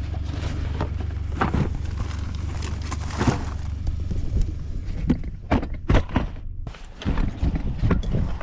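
A small motor hums steadily, then stops about four seconds in. Scattered knocks and clunks of handled gear run throughout, thicker and louder in the second half.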